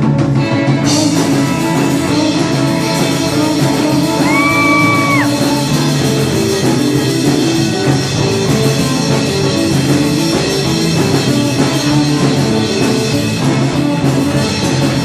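Live rock and roll band playing an instrumental passage between verses. A high held note sounds for about a second around four seconds in, sliding down as it stops.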